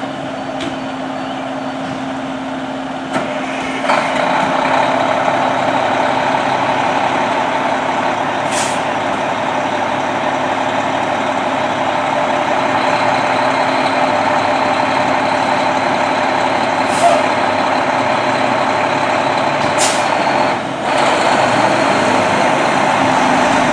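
Fire truck's diesel engine running steadily, with three short hisses of air from the air brakes.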